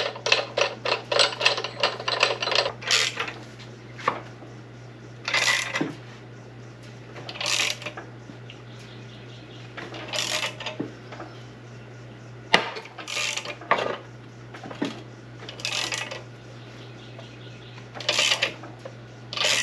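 A tool working the forcing screw of a bearing puller on an SM465 transmission shaft, pulling the bearing off: a quick run of clicks at first, then short metallic bursts every two to three seconds, over a steady low hum.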